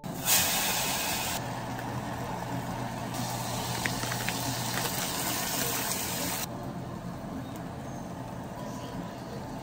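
Shirataki noodles and hijiki sizzling in a hot saucepan as they are stir-fried: a steady loud hiss that starts the moment the noodles go in, with a few light clicks.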